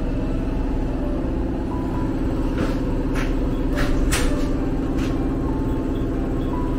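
Nose Electric Railway electric train heard from inside the passenger car as it shunts through the station: a steady running hum, with several short hisses in the middle.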